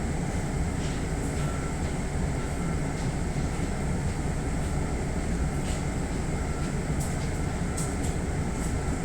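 Steady low hum inside a stopped electric train car, its onboard equipment running, with faint short beeps repeating about once a second.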